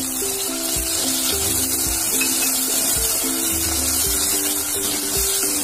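Chopped tomatoes sizzling in hot oil with fried onions and ginger-garlic paste, stirred with a spoon in a steel pressure cooker, over background music with a steady beat.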